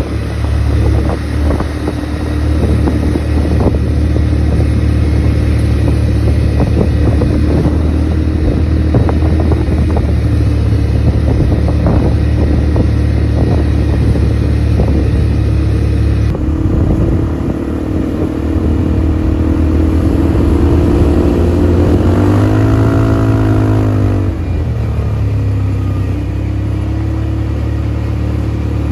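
ATV engine running under load, with many short rattling knocks over the first half. Past the middle the engine revs up and back down once.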